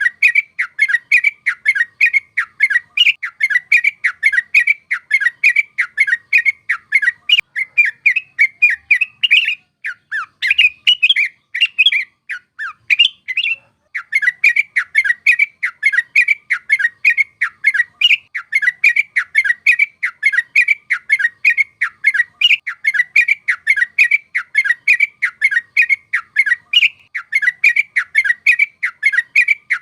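Yellow-vented bulbul (trucuk) singing a fast, rolling run of short bubbly notes. About ten seconds in, the run gives way to a few seconds of looser, varied phrases. After a brief pause the steady run resumes.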